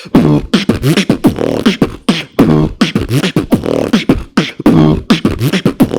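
Beatboxing: a fast, continuous routine of sharp percussive mouth hits, crisp inward K snares among them, with pitched vocal tones sliding up and down between the hits.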